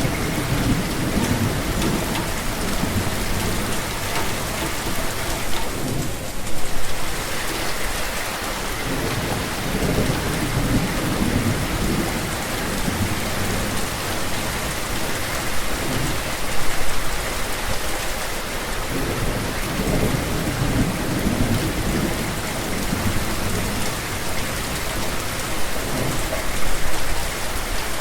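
Steady rain falling, with deep rumbles swelling up and fading again several times.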